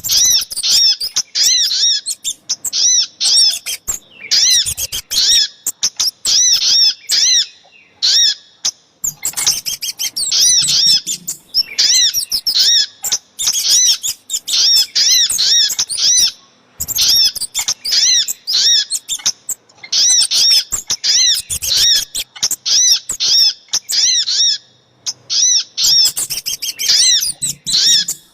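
Bird-trapping lure recording of small songbirds, the birds called sogok ontong and kemade, calling together: rapid runs of sharp, high, repeated chirps in bursts a few seconds long, with brief pauses between them.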